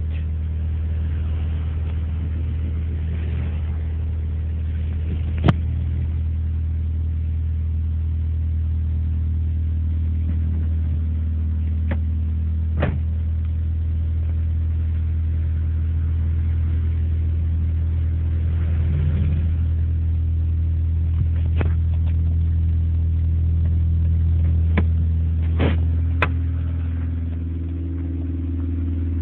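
Honda ESi sedan's engine idling steadily after a cold start, having sat unused for over a week. A few sharp clicks sound over it, and the note shifts slightly near the end.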